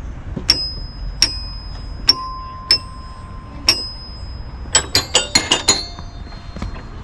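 A small metal bell struck again and again, each strike ringing on with a clear high tone. There are five separate dings, then a quick run of about six near the end.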